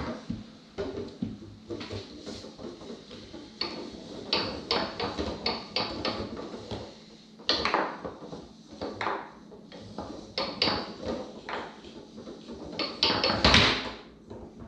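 Tornado foosball table in play: irregular sharp knocks and clicks of the ball being struck by the men and bouncing off the table walls, with rods sliding and clacking. A loud burst of knocks comes near the end.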